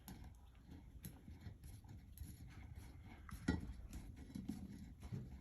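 Faint scattered clicks and light metallic taps as screws are tightened to hold a ceiling fan's mounting bracket to the electrical box, with a slightly sharper click about three and a half seconds in.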